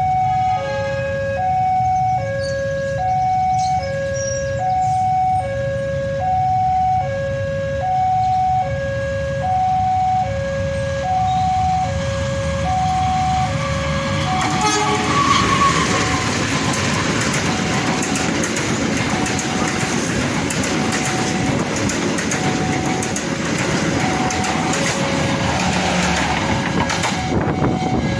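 Railway level-crossing warning alarm sounding, alternating between two tones, each held for under a second. About halfway through, a KAI diesel locomotive-hauled train arrives and passes close by. Its engine and wheel noise on the rails rises to become the loudest sound, while the alarm carries on faintly underneath.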